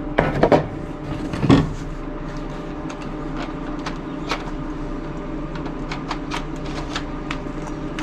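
Metal tools and workpieces being handled on a shop bench: a few knocks and clatter in the first two seconds, then scattered light ticks, over a steady low hum.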